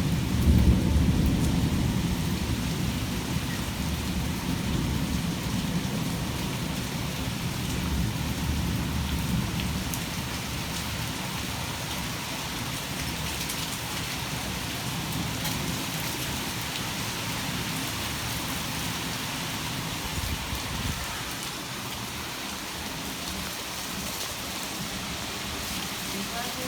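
Heavy thunderstorm rain falling steadily. A low rumble of thunder is loudest about a second in and fades away over the next several seconds.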